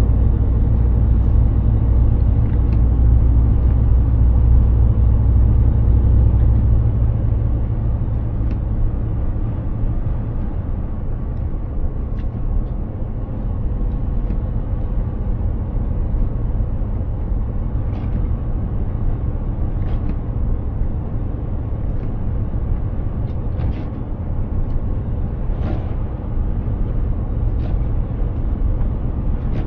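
Mercedes-Benz Actros 2763 truck driving: a steady low rumble of engine and road, heavier for the first several seconds and then easing off, with a few faint clicks scattered through the later part.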